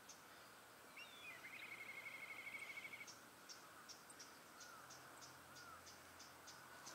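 Faint outdoor quiet broken by a small bird calling: a couple of quick high notes about a second in, then a rapid, even trill lasting about a second and a half. A few soft short chirps and faint high ticks follow.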